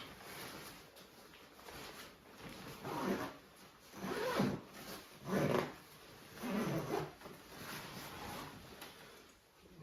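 Four short animal calls about a second apart, the second and third the loudest.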